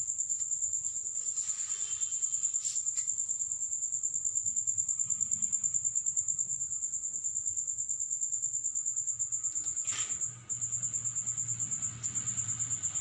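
Crickets chirping steadily in a high, rapid pulsing trill of about five pulses a second. A few short clicks sound over it, about two and a half seconds in and again near ten seconds.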